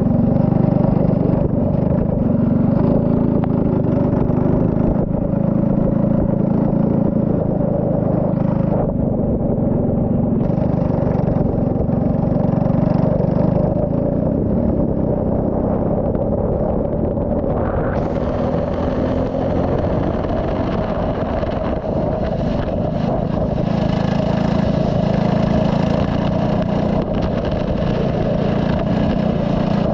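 Turbocharged Saab 9-3 race car's engine running hard on track, its note rising and falling as it accelerates and lifts.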